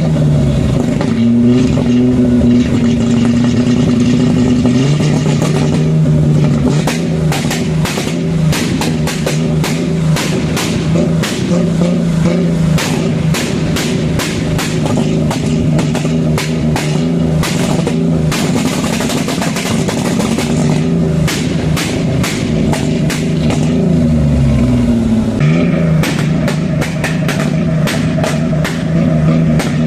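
A car engine held at steady revs, its pitch stepping down about five seconds in and dipping and climbing again near the end, with a long run of sharp cracks through the middle.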